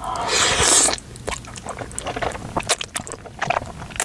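Ramen noodles slurped in about the first second, followed by close-up mouth chewing: a run of short, wet clicks and squishes.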